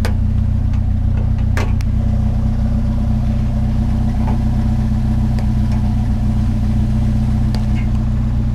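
Vehicle engine idling steadily, with a couple of sharp knocks in the first two seconds as scrap is handled.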